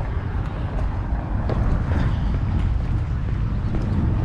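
Steady low outdoor rumble of wind buffeting the microphone, mixed with car traffic noise.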